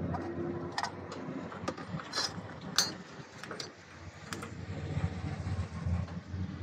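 A handful of sharp clicks and knocks of parts and hand tools being handled during fuel pump refitting, over a low steady background hum.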